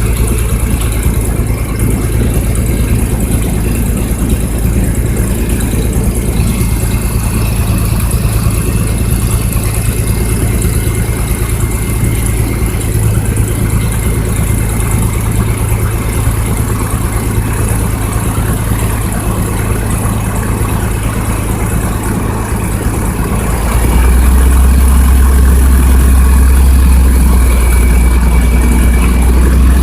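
Small single-engine propeller airplane's engine running steadily, heard from inside the cabin; about 24 seconds in it gets louder and its drone drops in pitch as the power setting changes.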